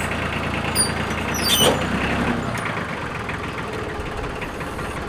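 Utility tractor's engine running steadily. A brief sharp high-pitched noise comes about one and a half seconds in, and the engine's low note eases a little just after.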